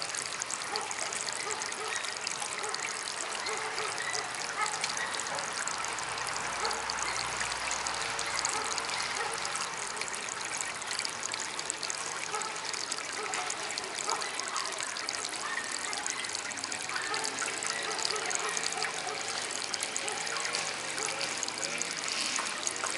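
Water trickling and splashing steadily in a small DIY garden water fountain.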